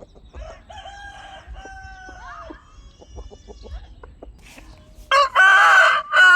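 Roosters crowing: a fainter drawn-out crow about half a second in, then a loud crow starting near the end, with soft clucking from the flock in between.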